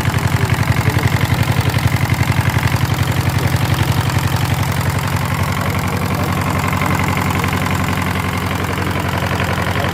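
Hatz diesel engine running at idle with a fast, even chugging; the beats are sharply marked at first and even out about halfway through.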